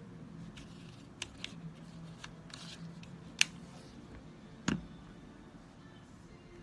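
Scattered sharp clicks, taps and light scrapes of small tools on the plastic parts of an IQOS heated-tobacco device being taken apart. The loudest is a sharp click about three and a half seconds in, followed about a second later by a duller knock.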